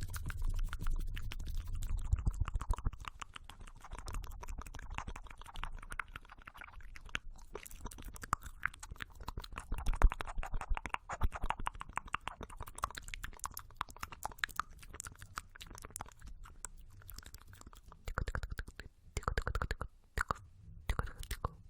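Close-miked ASMR trigger sounds: a dense, rapid patter of fine crackly clicks, with a low rumble at times.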